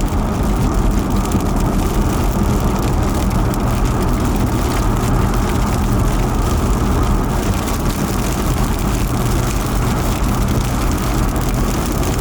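Steady vehicle noise heard from inside a car: a low engine hum under a constant wash of road or wind noise.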